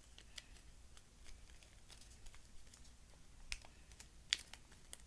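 A small square of paper being folded and creased by hand: faint scattered crinkles and taps, with a sharper click about four seconds in.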